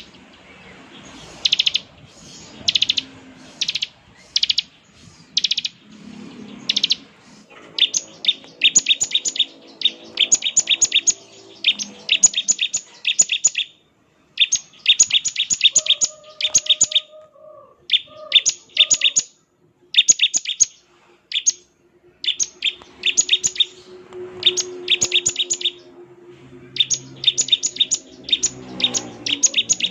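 Bar-winged prinia (ciblek) calling: sharp single notes about once a second at first, then rapid ticking trills in short bursts, the 'ngebren' call.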